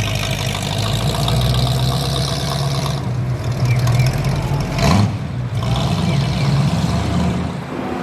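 Classic supercar engine running steadily at idle, with a brief rise in pitch about five seconds in.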